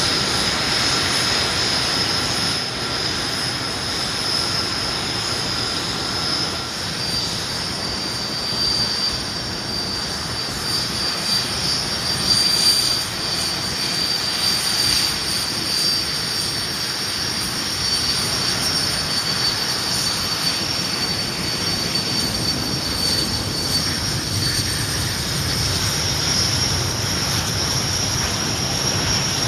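Display team's jet engines running after engine start: a steady, high-pitched turbine whine over a rushing rumble, its pitch shifting slightly about seven seconds in.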